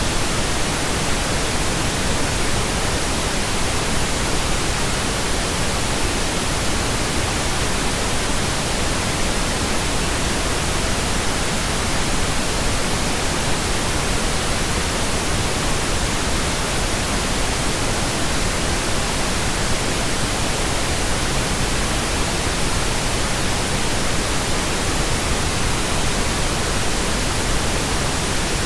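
Steady synthetic pink noise, an even hiss with no changes.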